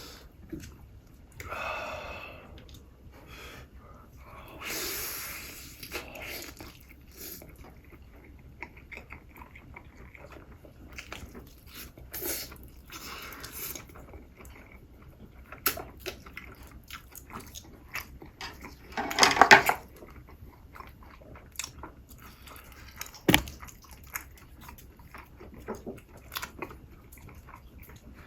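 Close-miked mukbang eating: repeated bites and wet chewing with small crunches, a few longer noisy stretches (the loudest about two-thirds of the way through), and one sharp knock a little later.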